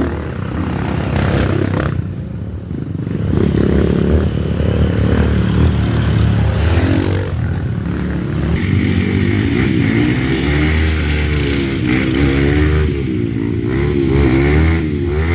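Enduro motorcycle engines running, the pitch rising and falling again and again as the throttle opens and closes.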